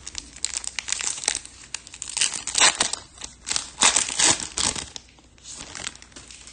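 Foil wrapper of a Topps Chrome baseball card pack crinkling as it is opened by hand. It is a dense run of sharp rustles that thins out about five seconds in.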